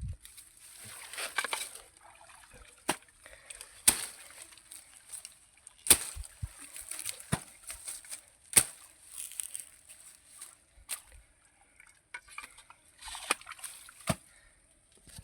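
Pond water sloshing and splashing as a fishpond's mud embankment is worked on, with sharp knocks every one to two seconds.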